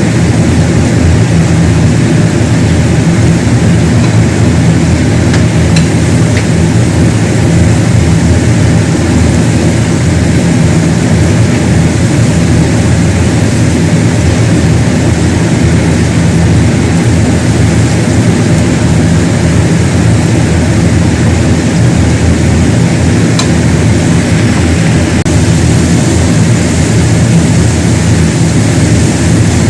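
A loud, steady mechanical drone with a low hum that does not change, with a couple of faint ticks.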